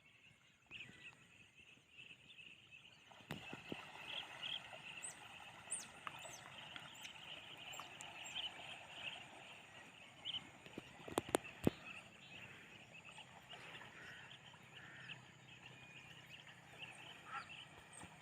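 A group of otters chirping and squeaking, many short high-pitched calls overlapping, with a few sharp knocks about eleven seconds in.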